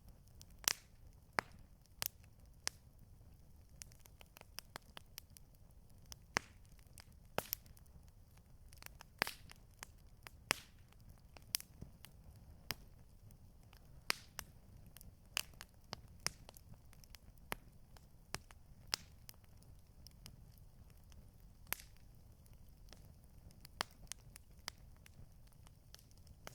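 Campfire burning: wood crackling with sharp, irregular pops, one or two a second, over a low steady rumble of the fire.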